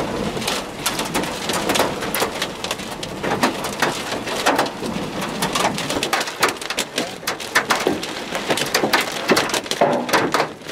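Large hailstones striking hard surfaces: a dense, irregular clatter of sharp impacts over the hiss of heavy precipitation.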